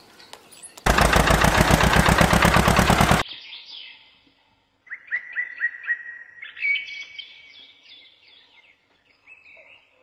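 Birds chirping: a run of short repeated chirps, then a more varied twittering song. Near the start, a loud, fast rattling burst of about two seconds cuts in and stops abruptly.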